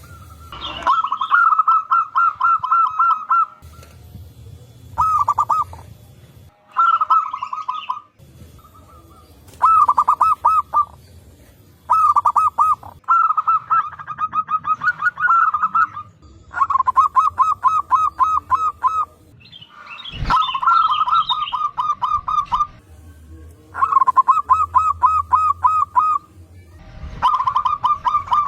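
Zebra doves (perkutut) calling back and forth: repeated phrases of quick, evenly spaced coos, each phrase one to three seconds long with short gaps between.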